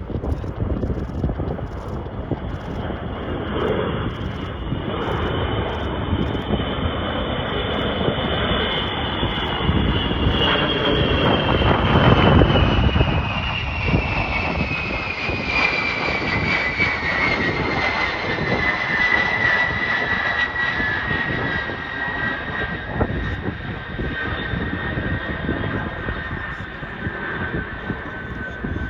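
Fixed-wing aircraft flying past with its engines running: a deep rumble under a high whine that drops steadily in pitch once it has passed. It is loudest about twelve seconds in.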